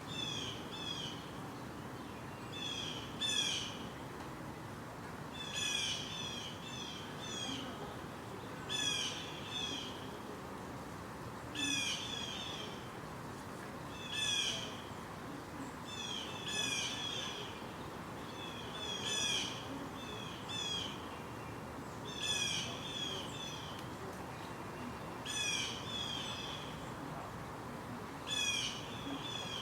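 A songbird calling the same short phrase of quick, high, down-slurred notes over and over, about once every two and a half to three seconds.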